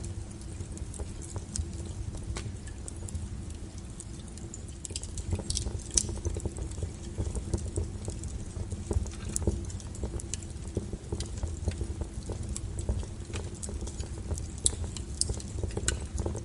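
Wood fire burning, with irregular sharp crackles and pops from the firewood over a steady low rumble. One pop about six seconds in is the loudest.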